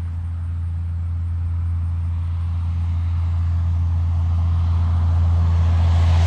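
Heavy truck approaching: a low, steady engine drone that grows steadily louder.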